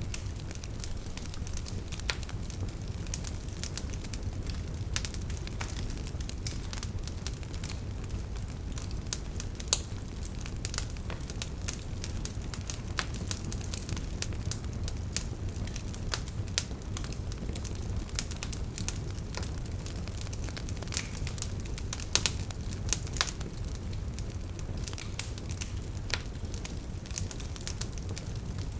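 Campfire burning, the firewood crackling and popping irregularly over a steady low rumble of the flames, with a few louder pops.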